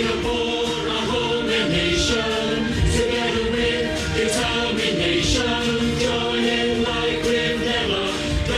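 Massed choir of singers performing a national song together, with musical accompaniment.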